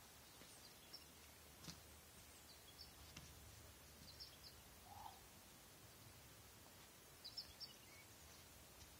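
Near silence with faint, short bird chirps in small groups now and then, strongest about seven seconds in, and a couple of faint soft knocks.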